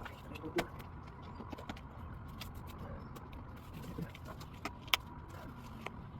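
Handling noise from a garage door seal channel being squeezed into place: scattered light clicks and taps, with one sharp click about five seconds in, over a low steady hum.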